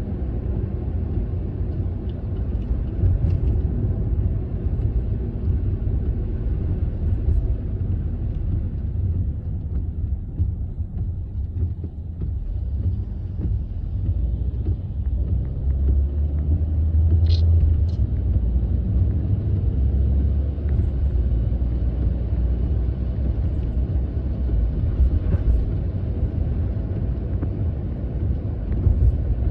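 Steady low rumble of a car driving, heard from inside the cabin, with a faint hiss of light rain and wet road underneath; the rumble swells for several seconds past the middle.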